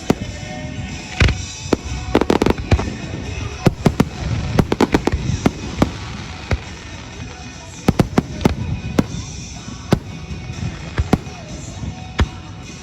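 Fireworks going off: many sharp, irregular bangs and cracks, some in quick clusters and some single, with a few louder reports.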